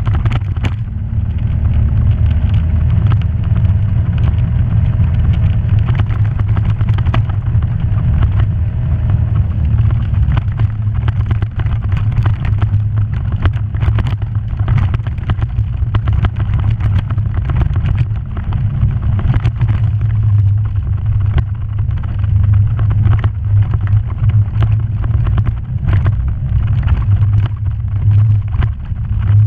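Off-road vehicle engine running steadily with a low drone while driving a rough trail, with frequent sharp knocks and rattles over it.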